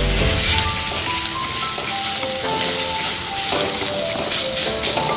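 Sliced onions and spice powders sizzling in hot oil in a metal kadai as they are stirred with a spatula, under background music with a simple melody of short held notes.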